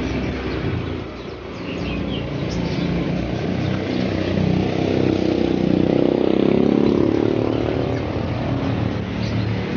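A motor vehicle passing on the street, its engine note swelling to a peak about halfway and easing off again over steady traffic noise, with a few faint bird chirps about two seconds in.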